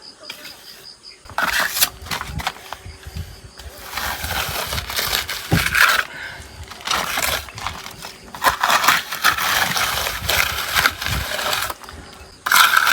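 Steel trowel scraping wet mortar across a brick wall in uneven strokes, as the wall is rendered.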